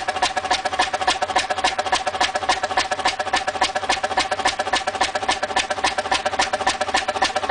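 A large engine running at a steady speed, its moving parts clattering in an even, rapid rhythm of about ten clicks a second over a steady whine.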